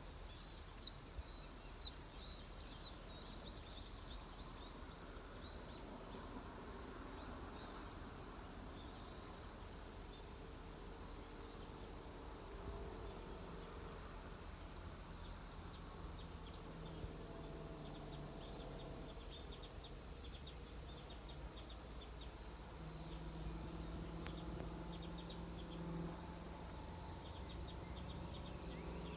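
Outdoor nature ambience: a few short, high bird chirps in the first seconds, then insects chirping in quick trains of high clicks from about the middle on, over a faint low rumble and drone.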